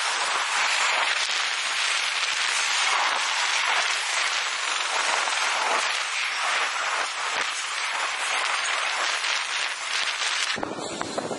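Double-stack container freight train rolling past: a steady hiss and rattle of steel wheels and cars with many small clicks and clanks. It changes abruptly near the end to a fuller, deeper train sound.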